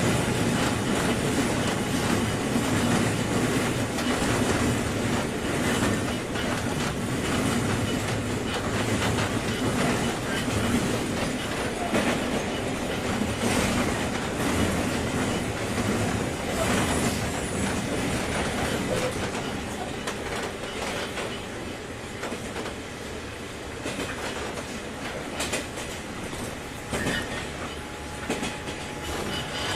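Running noise inside a JR 201 series electric train's motor car between stations: a steady rumble of wheels and running gear, with wheels clicking over rail joints now and then. It grows a little quieter past twenty seconds in.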